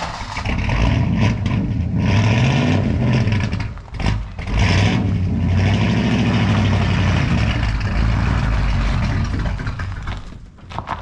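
Swapped-in Chevy 350 small-block V8 running and revving, its engine speed rising and falling, with a brief dip about four seconds in before it drops off near the end.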